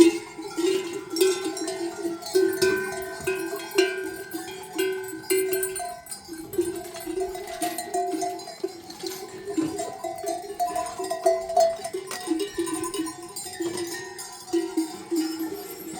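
Many livestock bells clanking unevenly together, as on a flock of sheep and goats on the move.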